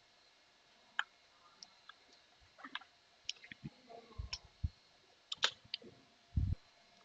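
Computer keyboard keystrokes: scattered single key clicks with short gaps, a quick run of several keys about five seconds in, and a dull thump near the end.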